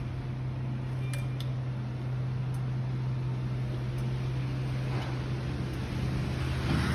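High-pressure washer's motor running steadily: a constant low hum under a hiss that grows a little louder near the end.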